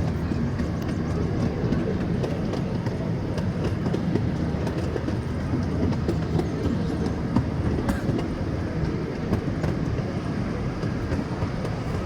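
Miniature passenger train rolling along its track, a steady low rumble from the carriages with scattered faint clicks from the wheels over the rail joints.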